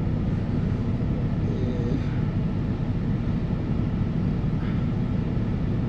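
Semi-truck's diesel engine idling: a steady low rumble.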